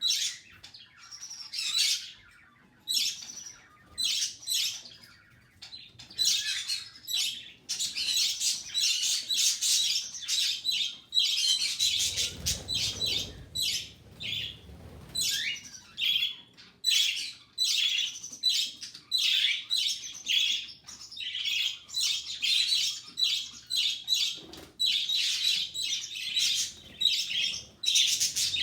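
Budgerigar chick about five weeks old begging for food: rapid, repeated high-pitched chirping in bouts, with short pauses between them.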